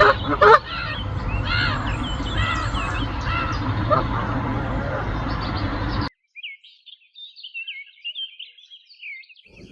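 Birds calling and chirping over wind rumbling on the microphone. About six seconds in, the wind cuts off suddenly, leaving only high, thin chirping birdsong.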